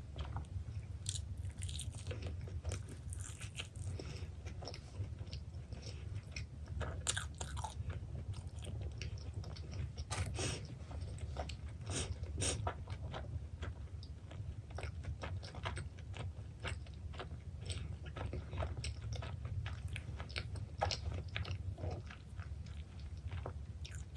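Close-miked biting and chewing of pepperoni pizza, with many short crunches and mouth clicks over a steady low hum.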